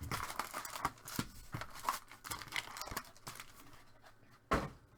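Trading card packaging being handled and opened: irregular crinkling and tearing of foil wrappers and cardboard, with one louder rip about four and a half seconds in.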